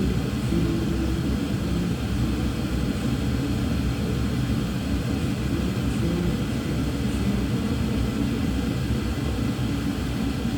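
A steady low rumble at an even level, with no breaks or separate knocks.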